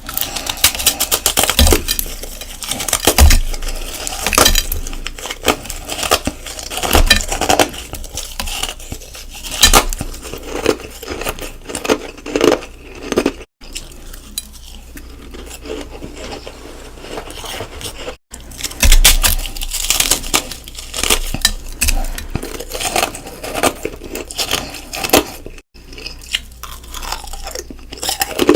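Close-miked crunching and chewing of hard ice, with dense crackling and louder cracking bites every few seconds. Three brief, sudden silent breaks interrupt it.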